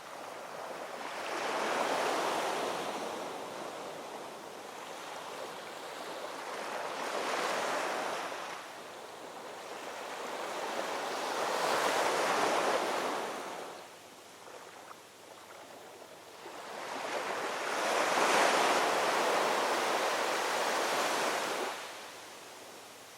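Ocean waves rolling in and washing on the shore, four swells of surf that build and fade, the last and loudest near the end.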